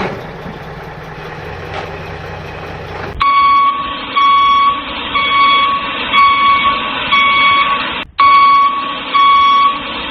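Electronic beeping like a reversing alarm, repeating about once a second, starting about three seconds in. Before it comes a hissing noise with a low hum.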